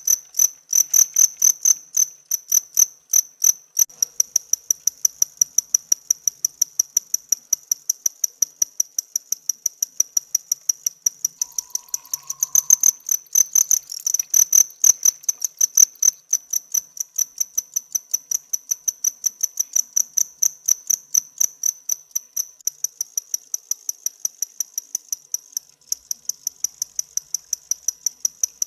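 A cricket chirping close up, rubbing its hard forewings together in a high-pitched, rapid and even train of chirps.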